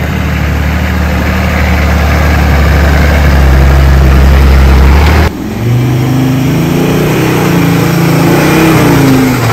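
Four-wheel-drive vehicle engine running at a steady, even note. About halfway through it changes abruptly to higher, wavering revs that rise and fall, as the engine works under changing throttle.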